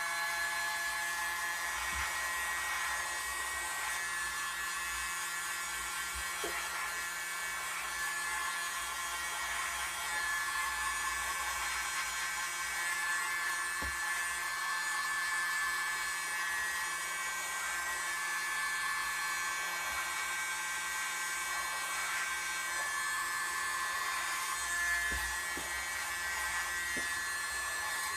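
Electric air blower running steadily, a constant whine with small swells in level.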